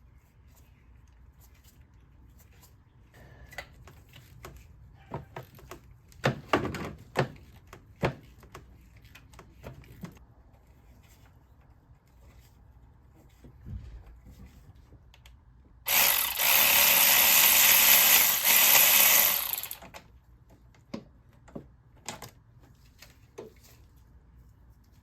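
A power tool runs in one steady burst of about four seconds, the loudest sound here. Scattered clicks and knocks of hand tools on the engine come before it.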